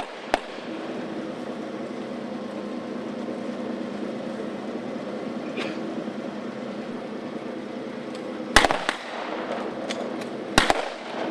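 Sharp cracks of blank gunfire: one shot just after the start, a quick double crack about eight and a half seconds in, and another burst near the end, over a steady low hum.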